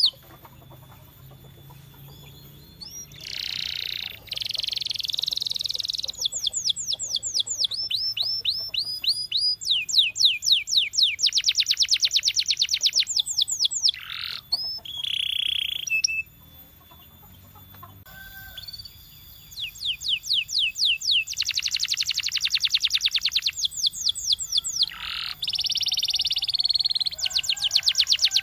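Domestic canary singing: fast trills of rapidly repeated, down-slurred notes alternate with held, buzzy rolls. The song breaks off briefly near the start and again about halfway through.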